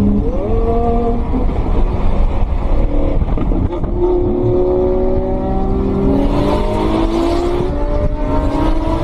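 Sports car engine heard from inside the cabin, accelerating hard at speed: its pitch climbs, breaking and dropping about four seconds in and again near the end, over a heavy road and wind rumble.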